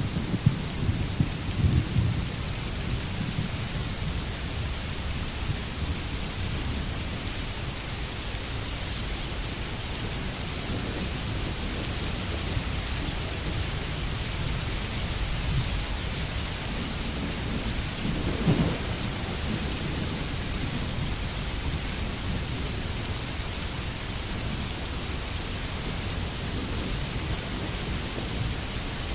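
Steady heavy rain hissing, with a low rumble underneath that swells near the start and again about two-thirds of the way through.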